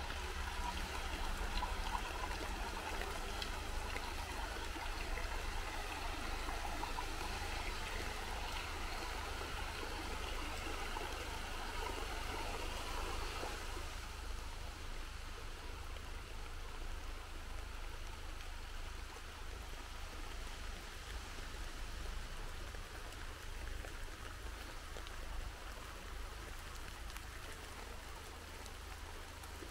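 Steady rain falling through trees and onto the garden, a dense even patter that thins out to a lighter fall about halfway through.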